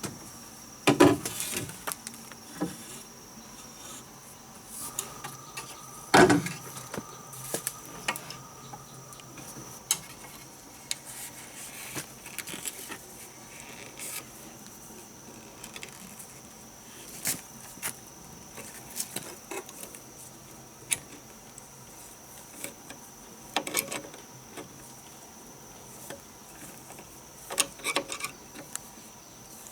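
Steady high-pitched insect drone, with scattered knocks and clicks on top; the loudest knocks come about a second in and about six seconds in.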